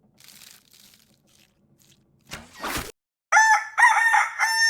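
A brief rushing noise about two seconds in, then a rooster crowing: a few short notes followed by one long held note near the end.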